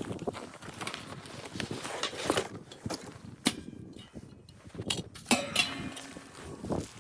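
A series of irregular crunches and sharp knocks at an uneven pace, a few of them louder, over a faint hiss.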